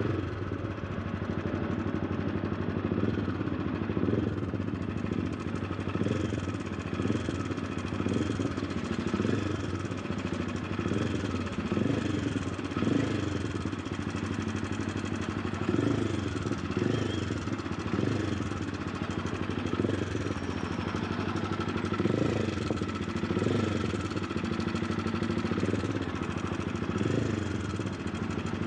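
Honda CBR300R's single-cylinder engine running steadily with a ticking, rattling noise from the cam chain, the sign of a broken automatic cam chain tensioner. The note swells slightly about once a second.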